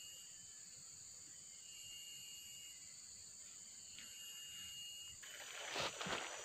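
A steady chorus of insects, crickets or cicadas, with short high thin calls repeating about every two seconds. About five seconds in comes a second of close rustling noise.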